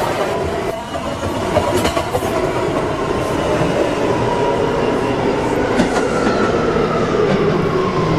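New York City subway train running along the track, with a steady rumble, a whine whose pitch drifts slowly, and sharp clicks over the rail joints about two and six seconds in.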